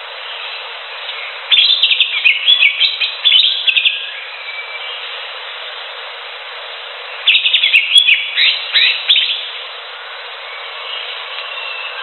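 Cucak hijau (leafbird) singing in two bursts of rapid, varied chirping and whistled notes, over a steady hiss.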